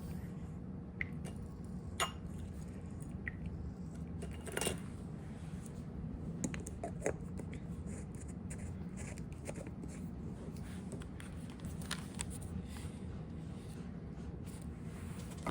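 Faint, scattered small taps and rustles of hands handling paper and small desk tools, over a steady low room hum.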